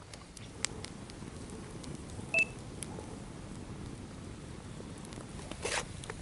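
Campfire of damp wood burning, with a steady low rush of flame and scattered sharp crackles. A short high beep comes about two and a half seconds in, and there is some rustling near the end.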